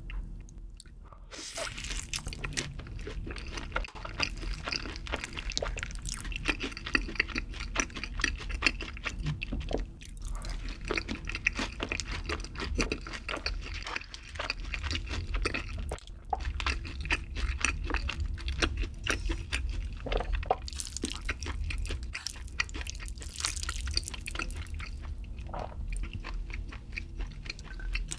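Close-miked chewing of crispy fried chicken: dense, crisp crunching and crackling of the batter, with a few short pauses.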